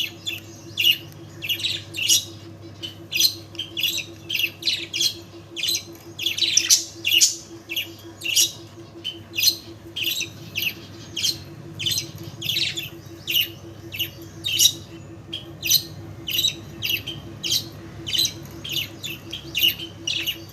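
Pet bird calling over and over in short, high-pitched calls, about two a second, with a steady low hum underneath.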